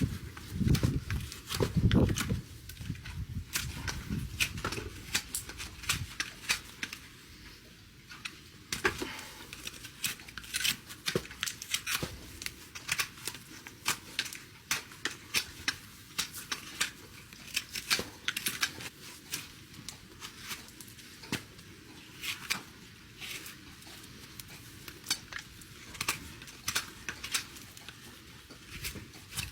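Hoof nippers cutting through an overgrown horse's hoof wall: sharp snaps and cracks come one after another at an irregular pace. Heavy low thuds sound in the first couple of seconds.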